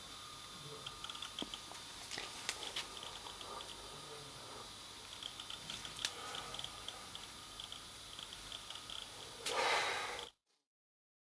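Clicking and ticking from a vintage Apple PowerBook 170 laptop: clusters of quick high ticks and a few sharper clicks over a steady hiss. Near the end a short burst of noise, after which the sound cuts out completely.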